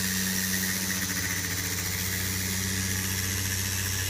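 Milling spindle on a Kawasaki industrial robot running steadily: a constant low hum with a steady high whine above it.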